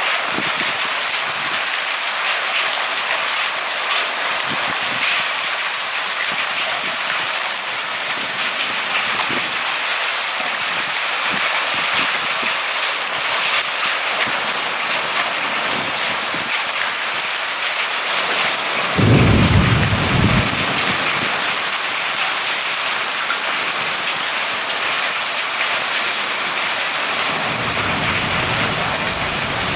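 Steady heavy rain hissing, with a short clap of thunder about two-thirds of the way through and a low thunder rumble starting near the end.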